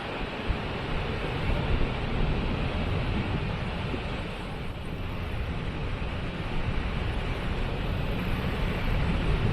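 Waterfall rushing steadily, a dense even roar with a heavy low rumble.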